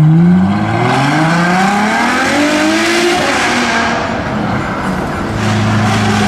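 V12 supercar engine accelerating hard, its pitch climbing steadily for about three seconds before fading away. A steady lower engine note comes in near the end.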